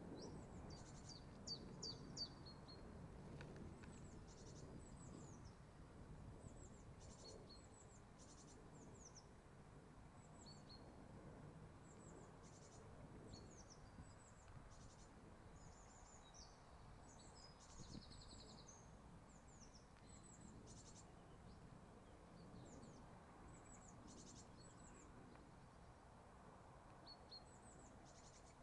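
Faint birdsong: short, high, down-slurred chirps and a few quick trills, repeated again and again over quiet low background noise.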